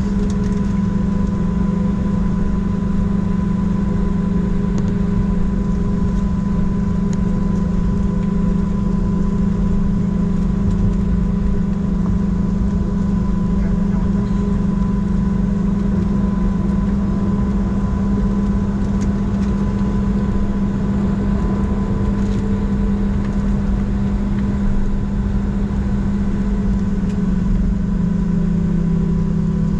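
Steady low drone and hum inside a Southwest Boeing 737-700 cabin on the ground, with a thin constant whine above it.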